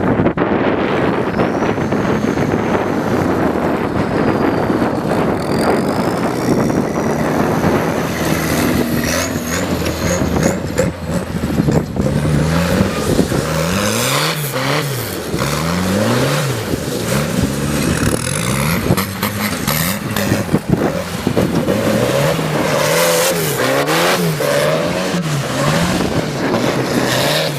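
A motor vehicle engine revving up and down over and over. In the second half its pitch climbs and drops about once a second, with a rougher, noisier engine sound before that.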